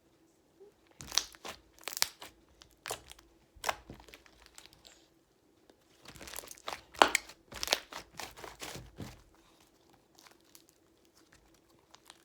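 Homemade monster slime with foam beads being squeezed and worked by hand: sharp crackling and popping of air pockets and crunching beads, in two spells of handling.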